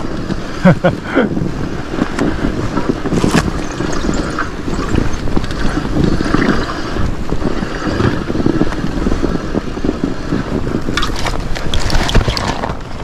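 Studded fat-bike tyres rolling and sliding over snow on a slippery downhill, with a steady low rumble throughout and scattered clicks and knocks.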